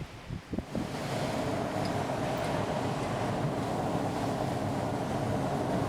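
Short gusts buffeting the microphone, then from about a second in a steady loud rush of wind and vehicle road noise.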